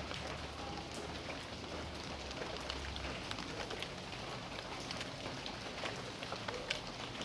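Steady rain falling on a backyard's surfaces, with individual drops pattering throughout and a faint low hum for the first few seconds.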